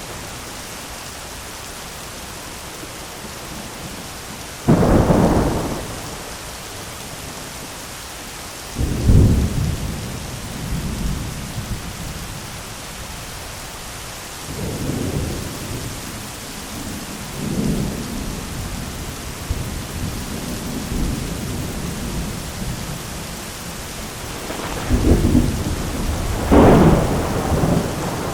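Heavy rain falling steadily with thunder: a sudden loud clap about five seconds in, several rolling rumbles after it, and the loudest peals near the end.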